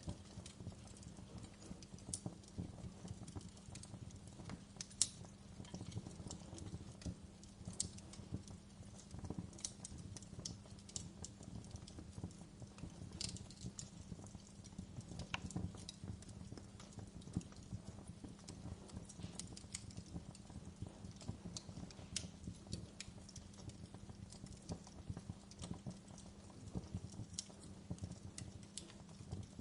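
Wood fire crackling: a steady stream of small crackles with irregular sharper pops over a low rumble.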